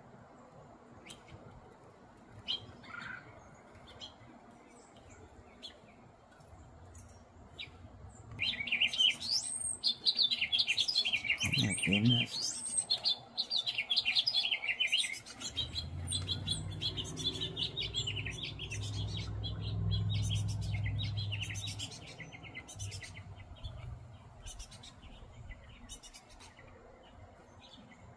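Small songbirds chirping and twittering in a busy flurry from about eight to sixteen seconds in, fainter before and after. A low steady rumble rises and fades from about sixteen to twenty-two seconds in.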